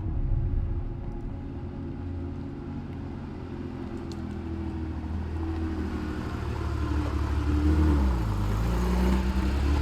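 Air-cooled flat-six engine of a 1970 Porsche 911 running under way, its note building in loudness, dropping in pitch briefly about eight seconds in as if between gears, then climbing again.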